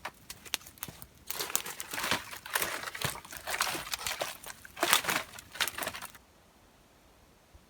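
Dense crinkling and crackling for about five seconds, with sharp clicks before it, stopping suddenly.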